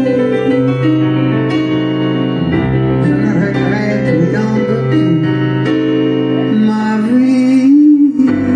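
Live keyboard playing slow, held chords in a ballad.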